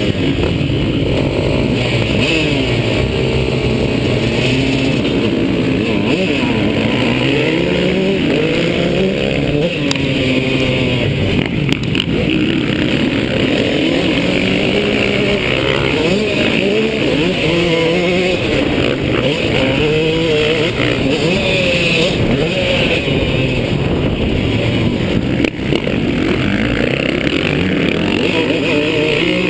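KTM two-stroke motocross bike's engine revving up and falling off again and again as it is ridden through the gears, heard from a camera mounted on the bike or rider.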